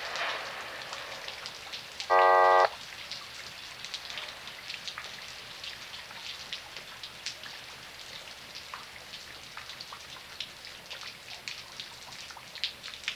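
Steady rain falling, with a patter of close drops. About two seconds in, a short, loud buzzing tone sounds for about half a second, starting and stopping abruptly.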